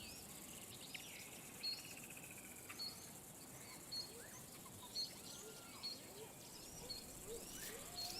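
Faint natural bush ambience with birds calling: a short high chirp repeats about once a second, and other birds whistle softly in the background.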